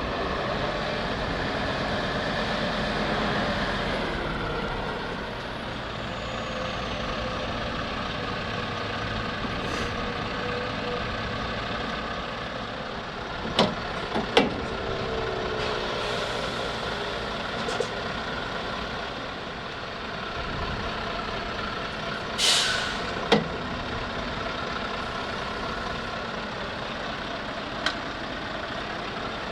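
Heavy diesel truck engine running, with a few sharp knocks about halfway through and a short air-brake hiss about 22 seconds in.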